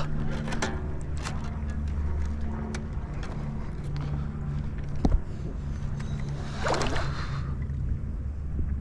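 A kayak angler fighting a hooked fish: water sloshing against the hull and scattered sharp clicks of tackle over a steady low hum, with a brief vocal exclamation about seven seconds in.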